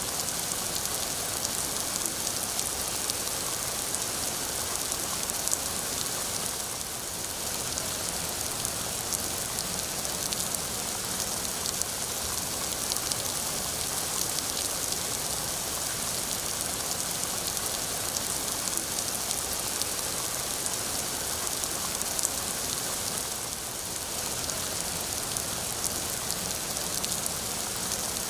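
Steady rain falling, an even hiss of rain on surfaces flecked with individual drop taps, easing very slightly twice for a moment.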